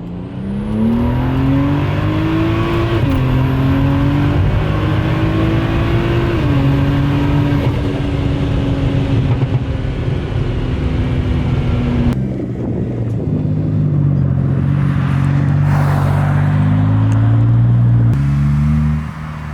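Big-single-turbo BMW N55 straight-six pulling hard under acceleration. Its engine note climbs and dips back a couple of times, then holds and climbs again, with a rushing whoosh about sixteen seconds in.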